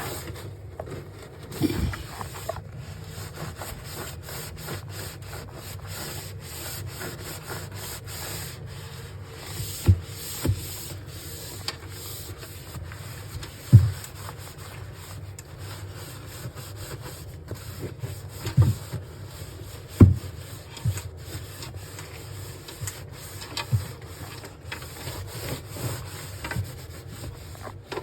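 Fridge surfaces being wiped and scrubbed by hand, a steady rubbing broken by several sharp knocks, the loudest about halfway through and again about two-thirds of the way in.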